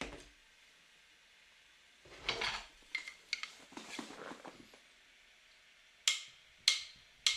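A few faint, scattered clicks and light clattering, short sounds with silent gaps between them.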